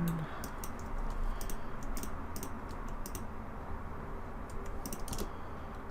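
Computer keyboard keys being pressed in short, irregular clusters of clicks, as in entering shortcut keys, over a steady low background hum.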